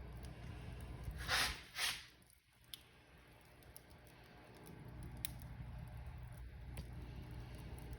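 Wood fire burning in a fireplace: a steady low rumble with scattered sharp crackles and pops. Two louder hissing bursts come about a second and a half in, after which the rumble briefly drops away before building back.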